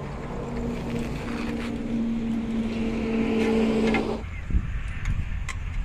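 A machine hum with a hiss, running steadily and then cutting off abruptly about four seconds in, over a low rumble that continues.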